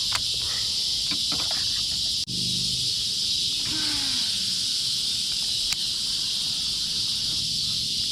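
Chorus of insects droning steadily at a high pitch, with a few light clicks and, about four seconds in, a short low sound that slides down in pitch.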